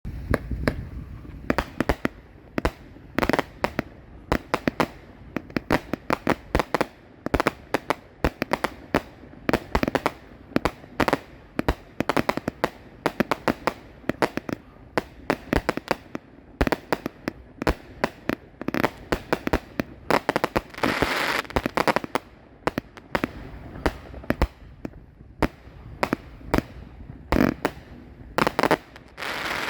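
200-gram, 25-shot consumer firework cakes firing: a fast, uneven string of sharp bangs, often several a second, with a denser stretch of crackle about twenty-one seconds in.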